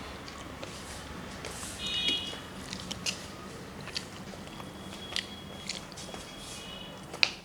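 Close eating sounds: chewing with sharp mouth clicks and smacks from a rice meal being eaten, the loudest click near the end. A few short high-pitched chirping tones sound faintly in between.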